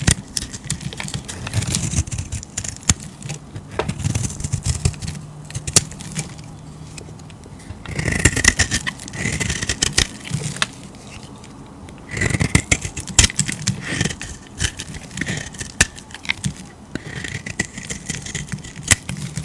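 Knife cutting through bar soap: crisp crackling clicks and scraping in repeated passes, heaviest in several bursts.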